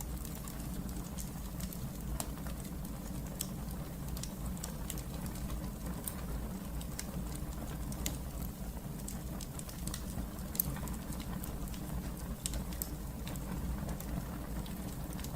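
Wood fire burning in a fireplace: a steady low rumble of flames with scattered small crackles and pops, and one sharper pop about ten and a half seconds in.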